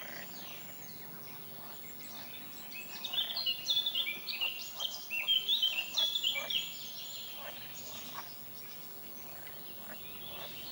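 Outdoor animal chorus: a steady, high background of calls with faint clicks, and from about three seconds in a loud burst of rapid, high chirping notes that jump between pitches, lasting about three and a half seconds.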